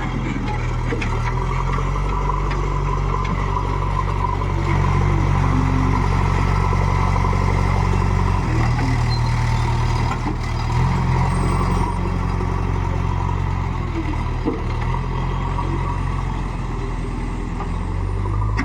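Diesel engine of a JCB 3DX backhoe loader running under working load. Its pitch steps up and down several times as the hydraulics dig and load.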